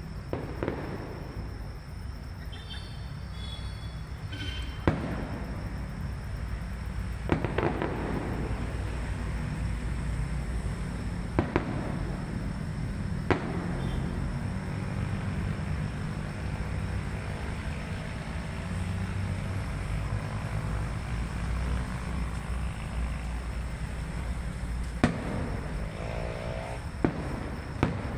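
Aerial fireworks going off, with sharp bangs every few seconds at irregular gaps over a steady low rumble.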